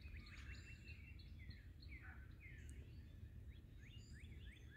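Faint birdsong outdoors: many short, quick chirps from small birds, repeating throughout, over a low background rumble.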